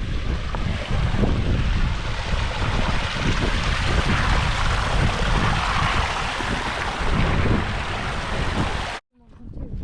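Strong wind buffeting the microphone, with a rough low rumble under a broad hiss. It cuts out suddenly near the end and comes back quieter.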